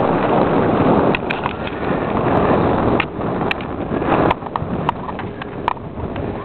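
Rushing handling and wind noise on a camcorder microphone, easing about four seconds in, with a few irregular sharp clicks and knocks.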